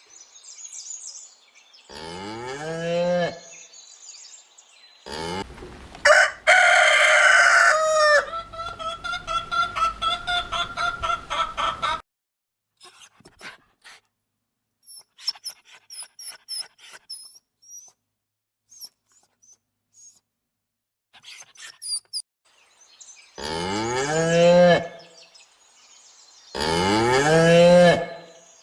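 Chickens: a rooster crows, followed by a rapid run of clucking, then scattered high peeps. Near the start and twice near the end there are separate, longer pitched calls from another farm animal.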